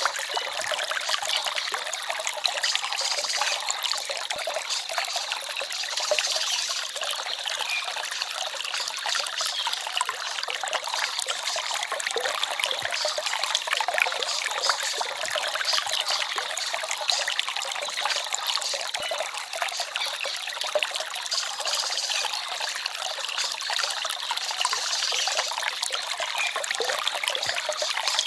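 Forest stream trickling and babbling steadily.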